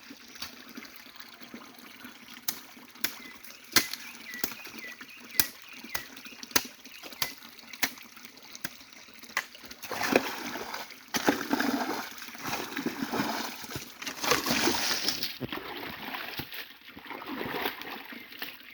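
Stream water splashing and sloshing as someone works in it clearing the streambed, with sharp separate splashes about once a second at first, then heavier, continuous splashing from about halfway through.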